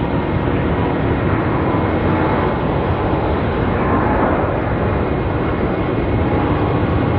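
Airbus A350-941's Rolls-Royce Trent XWB jet engines at takeoff thrust: a loud, steady jet noise with faint whining tones.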